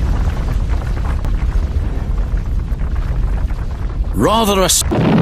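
Loud, continuous low rumbling from explosion-style sound effects, then a short cry that rises and falls in pitch about four seconds in.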